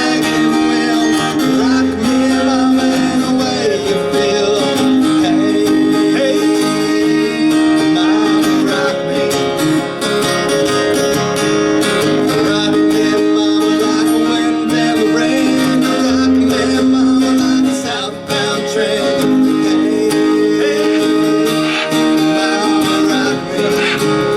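Live acoustic country music: strummed acoustic guitar with a melody line of long held notes over it.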